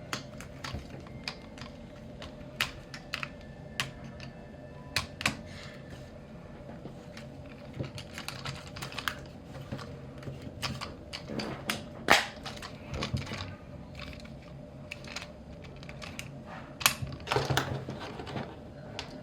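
Plastic parts of a Transformers Legacy United Sandstorm action figure clicking, snapping and knocking as it is transformed by hand: irregular clicks, with the sharpest snap about twelve seconds in and a cluster near the end.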